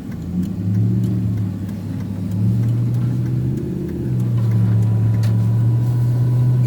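A truck engine revs under load as it pushes through a snow drift. The revs climb in three steps and stay high. The rear-drive truck's four-wheel drive is not engaged.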